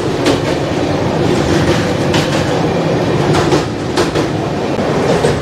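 Express train running over a river rail bridge, heard from an open coach doorway: a steady rumble of wheels on rails with a few faint clicks.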